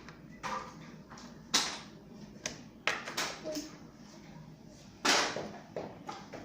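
A few short knocks and scrapes of objects being handled, the loudest about five seconds in.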